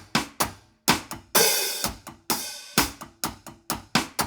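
Drum-kit hi-hat played on its own in an uneven run of short, crisp strokes, with two longer ringing strokes about a second and a half and two seconds in: the hi-hat part of a one drop reggae groove.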